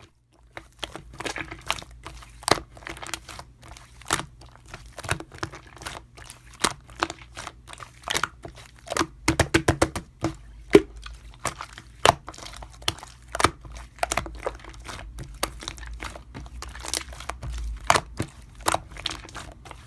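Slime being pressed and squished by hand, making irregular sharp pops and crackles, with a quick run of them about nine seconds in.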